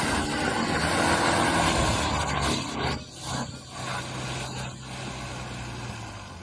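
Mercedes-Benz GLK260 engine working hard under load as the SUV pushes through deep mud. It is loud, with a rushing noise, for about three seconds. It then drops to a quieter, steady engine drone that fades near the end.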